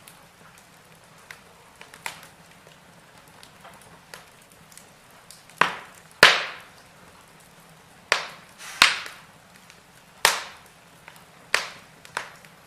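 Wood burning in a fireplace, crackling with scattered small ticks, then a run of about seven sharp pops from roughly the middle onward.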